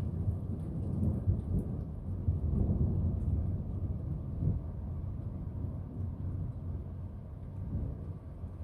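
Thunder rumbling, a deep low rumble that is loudest over the first few seconds and slowly eases off.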